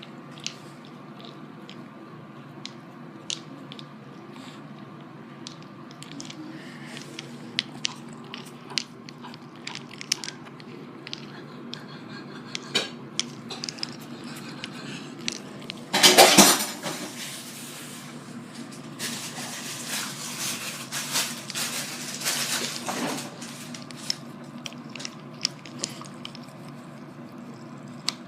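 Dogs crunching and chewing ice, a run of sharp cracks and clinks of ice breaking in their jaws, loudest in a dense burst about halfway through and busy again a few seconds later.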